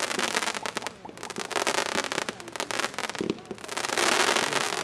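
Wolff Black Label 'Black Bird' firework going off in dense waves of rapid crackling, with the thickest and loudest crackle near the end.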